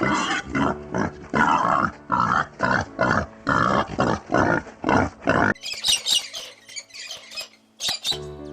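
Pig grunting and oinking in a rapid run of short calls, about three a second. These cut off about five and a half seconds in, and faint high-pitched squeaks follow.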